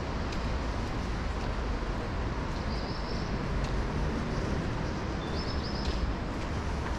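Urban station ambience: a steady low rumble of traffic and trains, with a few scattered sharp clicks and two brief high chirps, one about three seconds in and one near the end.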